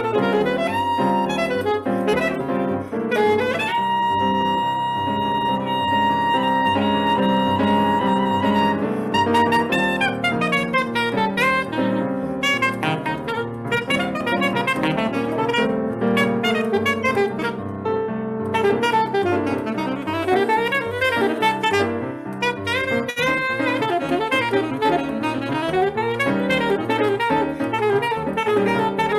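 Live saxophone playing Brazilian jazz over piano accompaniment. About four seconds in, the saxophone holds one long high note for around five seconds, then breaks into fast, winding runs.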